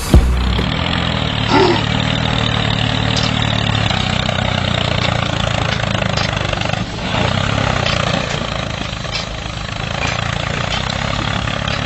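Small engine of a homemade mini tractor running steadily.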